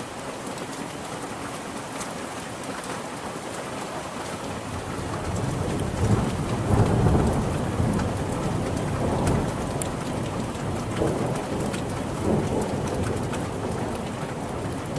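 Steady rain falling, with scattered sharp drips, and a low rumble of thunder that builds about five seconds in, is loudest a couple of seconds later, then keeps rolling on under the rain.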